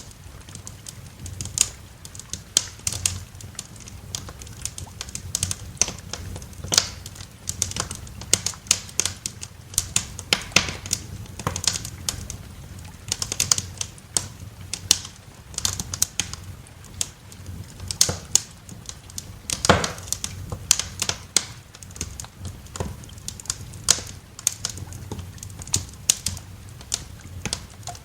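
Wood fire crackling in a fireplace: a steady stream of irregular sharp pops and snaps over a low, soft roar.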